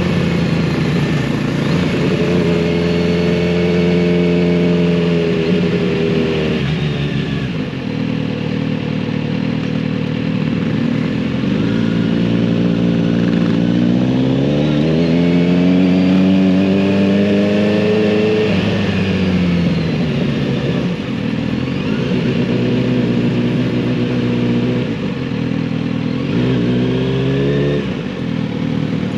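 Kawasaki Z900RS inline-four engine and exhaust under way on the road. The pitch climbs under acceleration and then falls away, most plainly twice, with the drops at a shift or when the throttle comes off.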